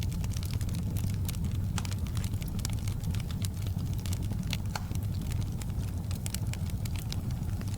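Wood fire burning in a fireplace: frequent sharp crackles and snaps, several a second and irregular, over a steady low rumble of the flames.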